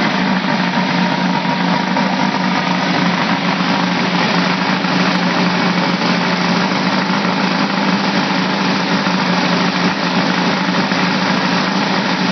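Freshly built turbocharged air-cooled VW engine idling steadily on its first runs with new intakes.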